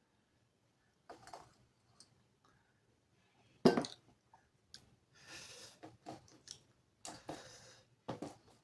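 Close-miked eating sounds: wet mouth clicks and chewing of a large mouthful of rice and curry, in short bursts. One sharp knock about three and a half seconds in is the loudest sound.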